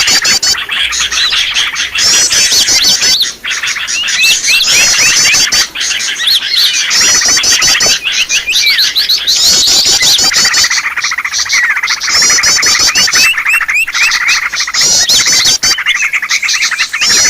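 Many small songbirds chirping and calling at once in a dense, noisy chorus. A short burst of rapid, high repeated sweeps comes back every couple of seconds. This is a bird-lure recording played to draw in wild birds.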